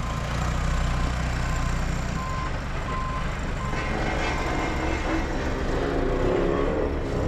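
Diesel engine of a telehandler running steadily, with its reversing alarm beeping about once a second through the first half as it backs up.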